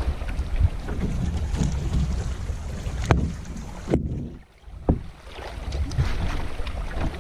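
Canoe being paddled on a lake, with wind buffeting the microphone as a steady low rumble. There are two sharp knocks, about three and five seconds in.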